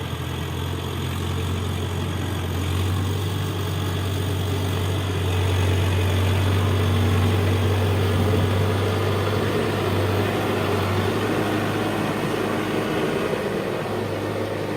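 Diesel engine of a heavy construction machine running steadily with a low hum, growing a little louder about halfway through and easing off again near the end.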